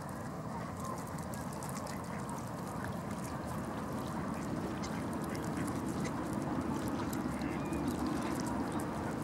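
Ducks quacking over a steady rushing background noise.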